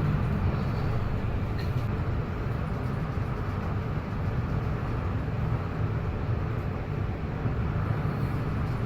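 Steady low rumble with a rushing hiss, from a research vessel under way in a storm at sea, with no distinct events.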